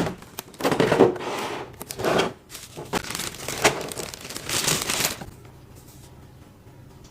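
Plastic packaging crinkling and rustling in irregular bursts as a boxed figure is unwrapped by hand, stopping a little after five seconds in.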